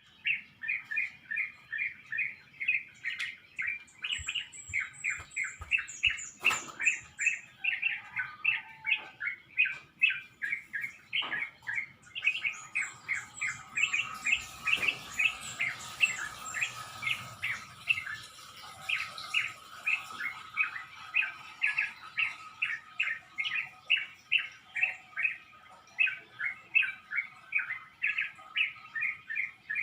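Birds chirping in a dawn chorus: a steady run of short, quick chirps, about three a second. A higher, thinner trill joins briefly early on, and a steady thin tone sounds underneath from about halfway.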